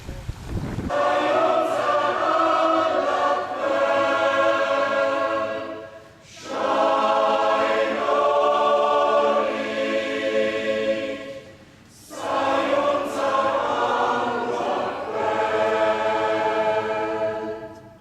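A choir singing in three long phrases separated by short breaths, starting abruptly about a second in.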